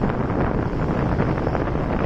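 Steady wind buffeting the microphone of a moving motorcycle, over the running motorcycle and its road noise.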